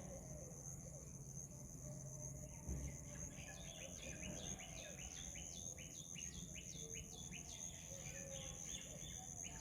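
Spotted owlet calling: a faint run of short, harsh, falling chirps repeated several times a second, starting about three seconds in and going on until near the end, over a steady high insect drone.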